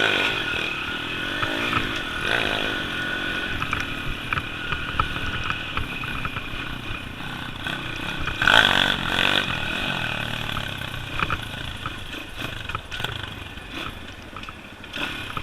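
Small pit-bike engine running as the dirt bike rides a trail, its pitch rising and falling with the throttle, with clatter and knocks from the bike over rough ground. The loudest moment comes about eight and a half seconds in.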